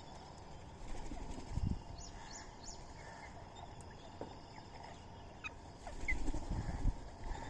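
Birds calling with a few short high chirps, broken by two bursts of low rumbling noise about a second and a half in and again near the end.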